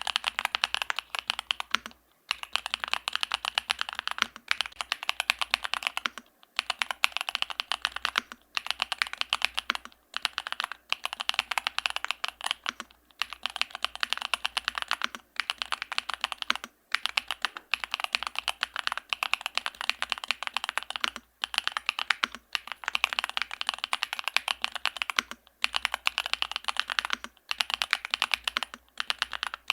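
Continuous fast typing on a Yunzii AL65 aluminium mechanical keyboard with Gateron Zero linear switches and a PC plate. Dense keystroke clicks come in runs broken by brief pauses every second or two.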